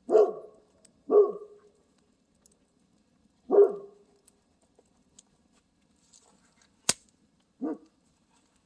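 A dog barking: three loud single barks spaced over the first four seconds, then a softer one near the end. A sharp snap comes just before the last bark.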